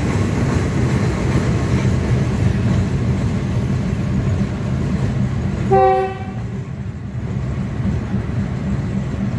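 Thai passenger train rolling along with a steady low rumble, heard from inside a carriage by an open window. About six seconds in, the train horn gives one short blast.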